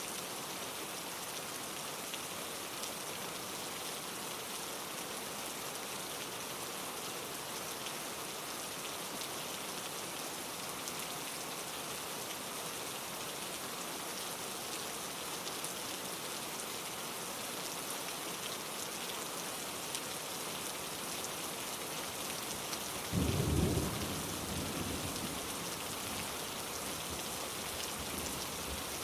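Steady rain falling with an even hiss. About three-quarters of the way through, a short low rumble of thunder swells up and fades over a couple of seconds.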